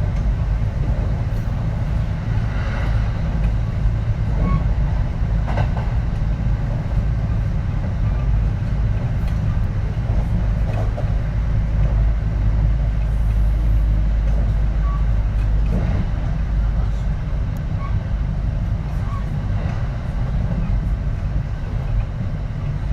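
Kintetsu 3220 series electric train running between stations, heard from inside the car: a steady low rumble of wheels on rails with scattered clicks and knocks, swelling a little in the middle.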